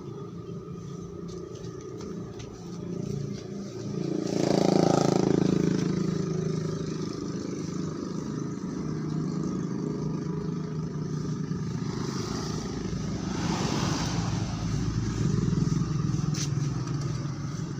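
Motor vehicles passing by with a steady low engine hum. It swells loudest about four seconds in, and again more weakly about thirteen seconds in.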